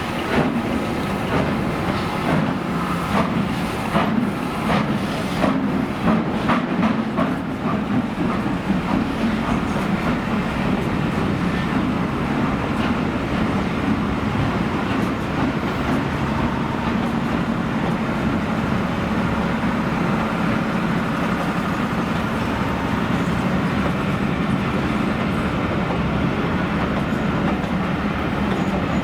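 A train rolling past on the rails, its wheels clicking over rail joints for the first several seconds, then a steady rumble of the carriages going by.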